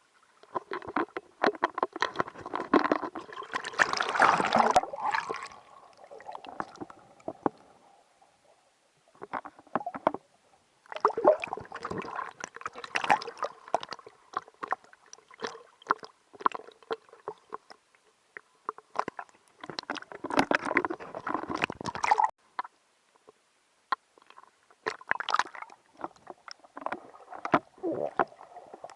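Muffled water sloshing and knocks heard through a Sony HDR-AS50 action camera's waterproof housing. They come in irregular bursts of clicks and splashy noise with short quiet gaps between them.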